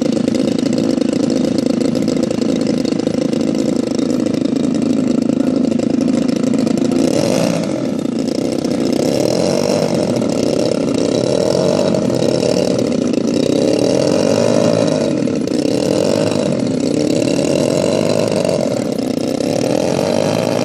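Twin DLE 35cc two-stroke petrol engines of a large radio-controlled Cessna 310 model running steadily. About seven seconds in the throttle comes up and the pitch rises, then wavers slowly up and down.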